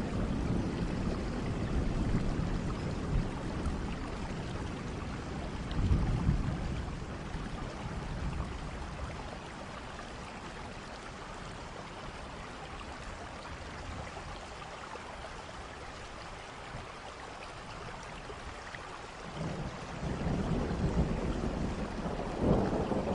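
Steady rainfall with rolling thunder. A low rumble at the start and another about six seconds in die away into rain alone, then thunder builds again near the end and grows louder.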